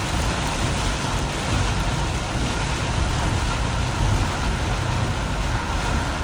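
Car travelling through heavy rain: a steady low rumble of tyres and engine under an even hiss of rain and road spray.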